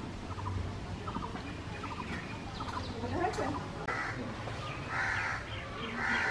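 A few short bird calls, the strongest about four, five and six seconds in.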